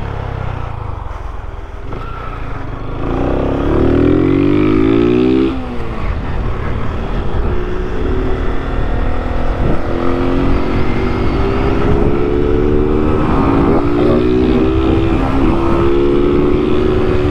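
Honda 160 single-cylinder motorcycle with an 'operado' (modified, gutted) exhaust, revving hard under acceleration during a wheelie. The pitch rises for a couple of seconds, drops sharply at a gear change about five and a half seconds in, then climbs slowly and steadily, with wind buffeting the microphone.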